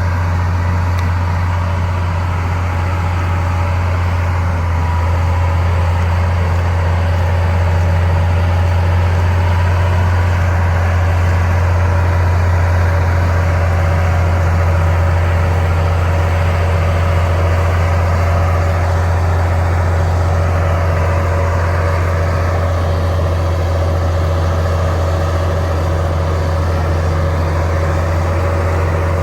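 Bulldozer's diesel engine running steadily, a deep even hum with no change in speed.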